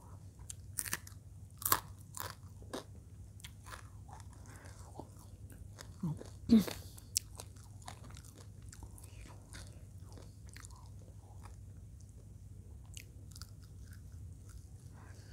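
Close-up crunching and chewing of crispy fried eel in balado sauce: several sharp crunches in the first three seconds, the loudest one about six and a half seconds in, then softer chewing.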